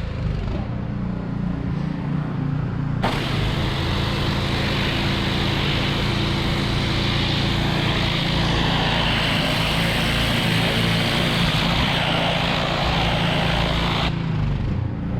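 Gas-engine pressure washer running steadily, with the hiss of the high-pressure water spray starting sharply about three seconds in as the gun's trigger is pulled and cutting off about a second before the end.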